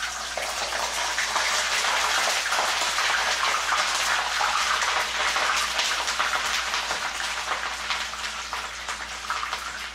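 Raw crinkle-cut potato fries sizzling hard in hot oil in a skillet, just dropped in for their first fry. The sizzle builds over the first second, stays loud and even, and eases slightly near the end.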